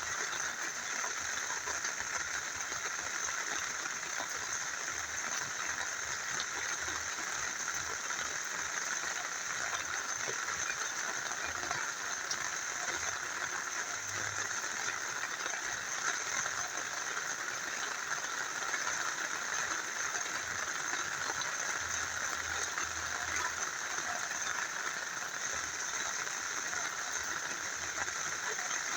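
Steady rain falling alongside a small river flowing: a continuous, even hiss of water that holds level throughout.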